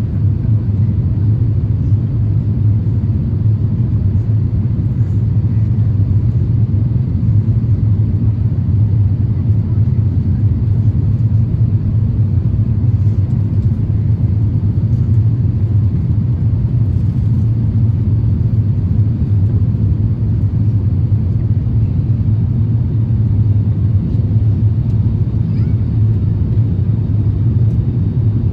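Cabin noise inside an Airbus A350-1000: a steady low rumble of engines and airflow that stays even, with no change in pitch or level.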